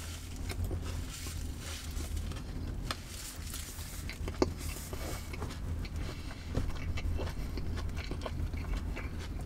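A person chewing a mouthful of crunchy breaded fish sandwich with the lips closed: soft crunching and small wet mouth clicks, with one sharper click about four and a half seconds in, over a low steady hum.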